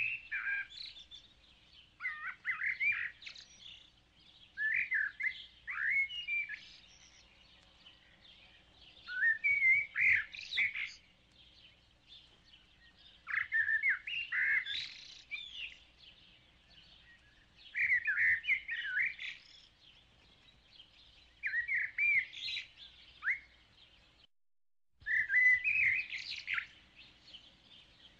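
A bird singing in short phrases of rapid chirps and whistles, each phrase lasting about a second and coming roughly every four seconds.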